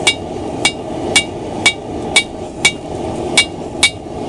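Hand hammer striking hot steel on an anvil, about two blows a second with a short metallic ring after each, over a steady rush.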